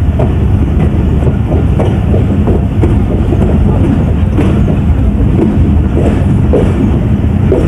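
Passenger train of the Pakistan Express running at speed: a loud, steady low rumble of coach wheels on the track, with frequent clicks and clatter from the rails.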